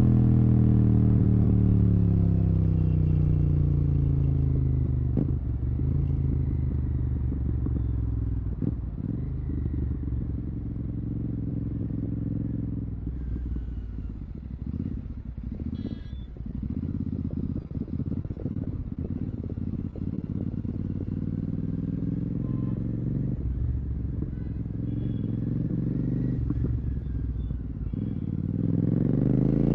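Royal Enfield Continental GT 650's 648 cc parallel-twin running through a Red Rooster aftermarket exhaust with the dB killer removed. The engine note falls as the bike slows over the first several seconds, then burbles at low revs for a long stretch. Near the end it rises again as the bike pulls away.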